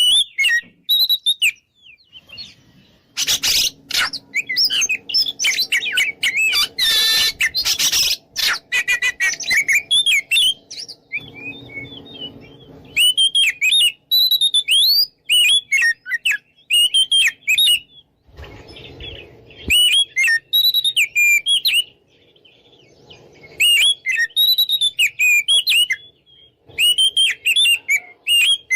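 Oriental magpie-robin (kacer) in full, loud song: rapid, varied whistled notes sliding up and down, in bursts with short pauses. This is the aggressive song meant to provoke rival males. A low rumbling noise runs under the song in two stretches.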